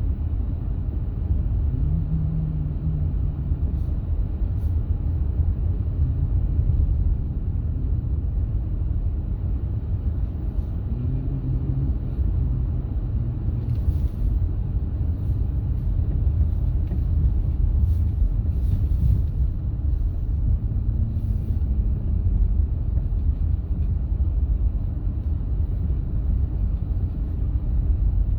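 Steady low rumble of a road vehicle in motion, with a faint engine tone rising briefly a few times.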